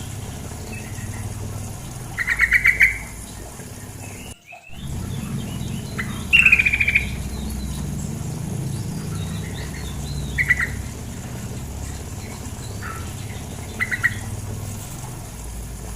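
Female sooty-headed bulbul (trucukan) giving short, rattling chattering calls, five or six bursts with gaps of a few seconds between, over a steady low rush of flowing water. The sound cuts out briefly about four and a half seconds in.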